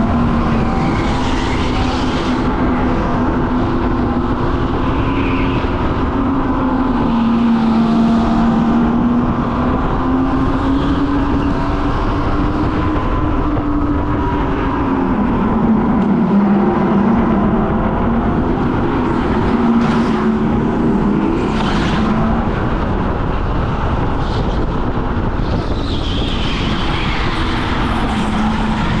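Go-kart engine running hard, its pitch rising and falling over and over as the kart speeds up and slows for the corners.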